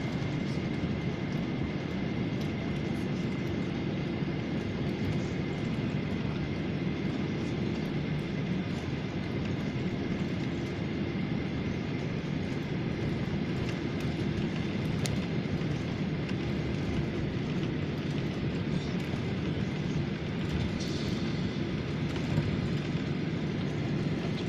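Steady drone of an airliner's jet engines and airflow heard from inside the passenger cabin, with a thin steady whine over the low rumble.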